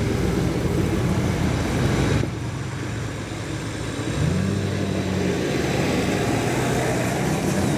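Off-road 4x4's engine running, dropping off a little after two seconds in, then picking up again just after four seconds to a steady hum.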